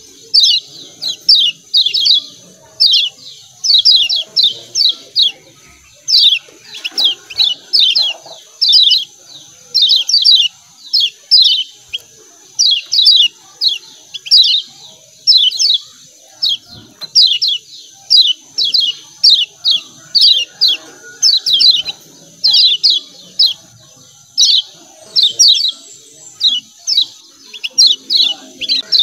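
Kecial kuning white-eyes giving a busy 'ciak ciak' chatter: short, sharp, high chirps in quick clusters of two to five, about one cluster a second, over a steady high-pitched hiss.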